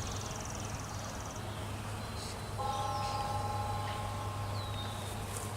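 Honeybees buzzing around an open hive, with a steady low hum. About two and a half seconds in, a close bee adds a clear, steady pitched buzz for a couple of seconds, and a few faint bird chirps sound.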